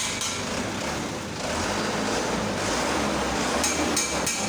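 Mitsubishi Canter dump truck's diesel engine running during a test after a clutch disc replacement, its low rumble swelling about a second and a half in. Rhythmic sharp ticks, about three to four a second, come at the start and again near the end.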